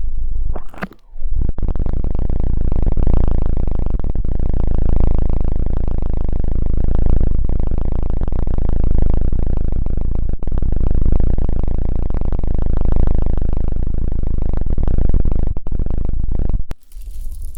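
Loud low rumble right on the binaural microphone, swelling gently about every two seconds, with a short dropout about a second in. Near the end it gives way to a brighter hissing rustle.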